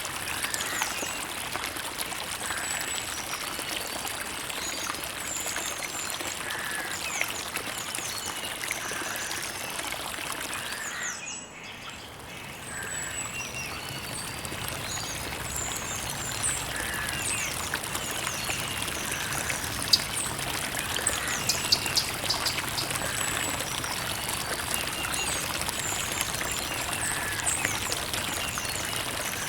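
A creek's water trickling and running steadily, with small birds chirping now and then. The water sound dips briefly about eleven seconds in.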